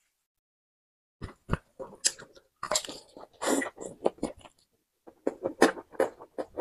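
Close-miked mouth sounds of a person biting and chewing roast duck leg, coming in short, irregular bites and chews starting about a second in.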